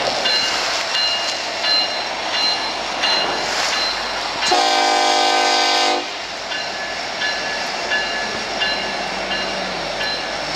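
Montana Rail Link freight locomotives rolling past close by, a steady rumble of engines and wheels on rail. About halfway through, a locomotive air horn sounds one blast of about a second and a half.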